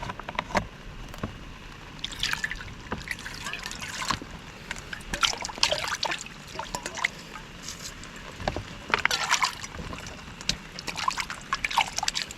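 Water trickling and splashing in short, irregular spurts.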